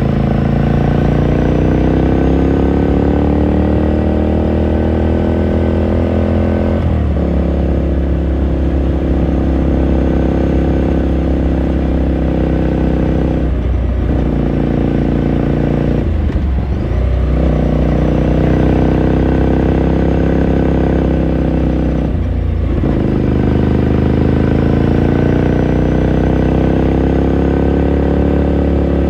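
2018 Ducati Scrambler Sixty2's air-cooled 399 cc L-twin under way: the revs climb, drop sharply at each gear change about 7, 14 and 22 seconds in, and climb again. Near the middle the revs dip and rise briefly once more.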